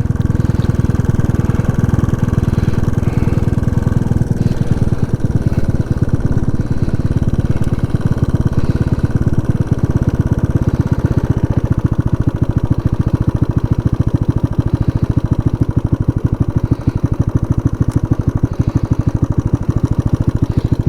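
Motorcycle engine running steadily while riding, with a fast, even firing beat.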